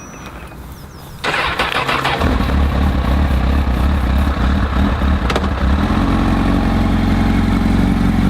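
Car engine started: a sudden loud burst about a second in, the engine catching about a second later and running steadily with a deep, even note. The note steps up to a higher steady pitch about six seconds in.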